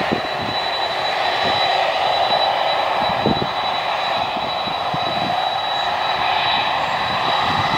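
Jet aircraft engines running loud and steady, with a thin high whine held on top.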